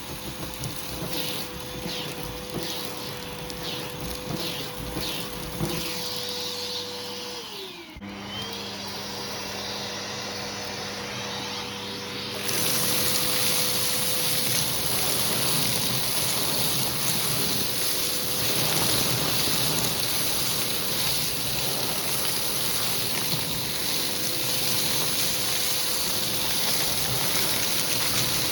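Hoover vacuum cleaner running with a hose tool, a steady motor whine under a rushing of air. The motor note dips briefly about eight seconds in, and from about twelve seconds a louder, hissier rush of air through the tool takes over.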